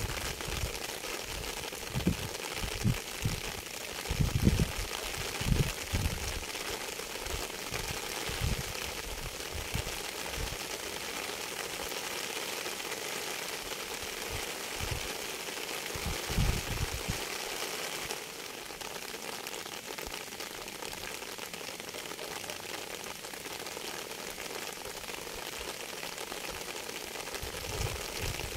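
Steady rain falling, with irregular low thuds during the first few seconds and again about sixteen seconds in.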